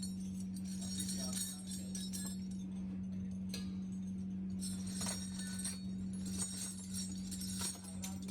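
Small metal parts clinking and jingling against one another in irregular bursts, over a steady hum from a running machine motor.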